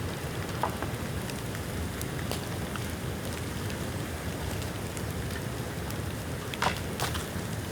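Bamboo bonfire burning: irregular sharp crackles and pops over a steady rushing noise of the fire. The two loudest pops come close together near the end.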